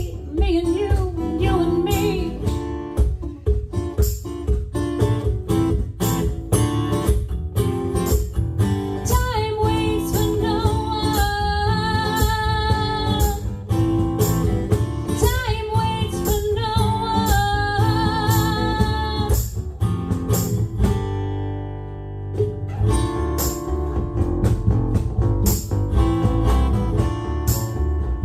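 Live band music: a female singer with guitar over a steady beat. There is a short drop in the band about three quarters of the way through before it comes back in.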